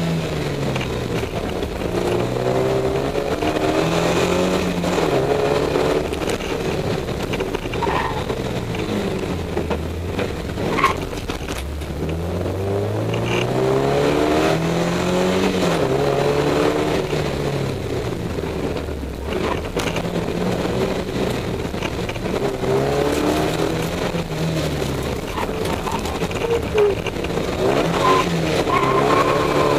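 Rally car engine heard from inside the cabin, revving hard and dropping back again and again as the car accelerates, shifts gear and slows for corners, the pitch climbing and falling repeatedly.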